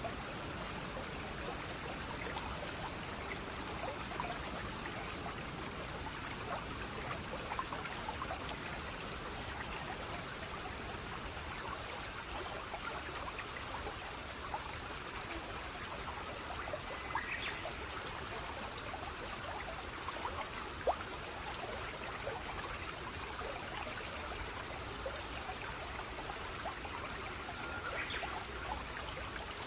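Small stream or brook trickling steadily over stones, with many small splashes and drips. Two brief high chirps come through, about halfway and near the end.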